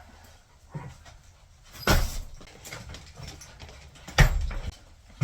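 A small dog making noises, with several knocks or thumps; the loudest two come about two seconds in and about four seconds in.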